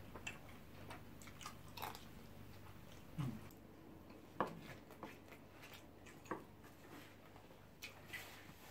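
Faint eating sounds: chewing and mouth sounds of people eating jollof rice with metal spoons, with scattered short clicks a second or two apart.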